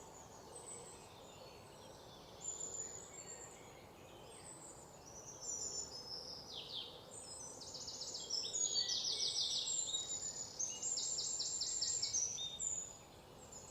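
Birds chirping and twittering, with rapid trilled phrases that grow busier from about eight seconds in, over a faint steady background hiss.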